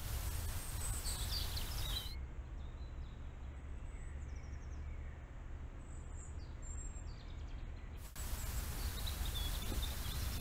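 Songbirds chirping and singing in short phrases over a steady low background rumble of outdoor noise. The background changes abruptly about two seconds in and again about eight seconds in.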